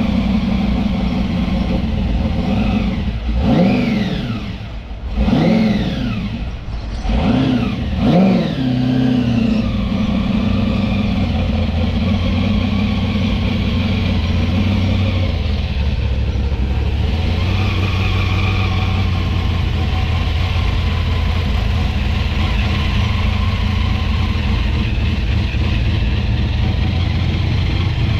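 A car engine running loud, blipped up and back down three times in the first nine seconds or so, then idling steadily.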